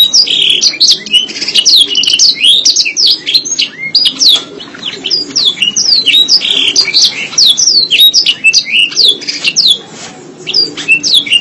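Domestic canary singing a long, fast, unbroken run of sweeping chirps and trills, with a short pause about ten seconds in.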